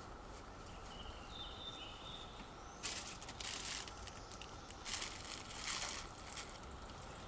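Outdoor ambience: a steady background hiss with a few short high bird chirps, broken twice by loud bursts of rustling noise.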